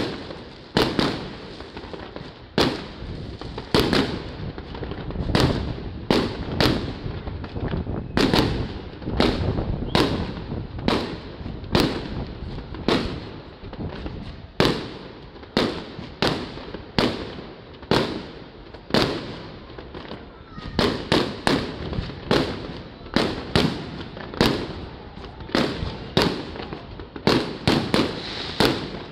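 Fireworks display: aerial shells bursting overhead in a long series of sharp bangs, a little more than one a second and unevenly spaced, with a low rumble between them.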